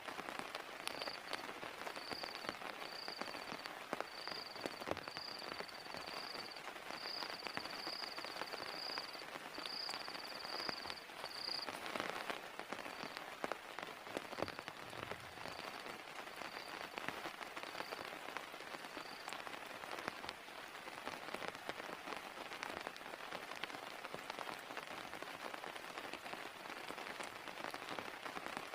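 Steady heavy rain, with individual drops ticking close by. A high-pitched pulsing call repeats about once a second and stops a little past two-thirds of the way through.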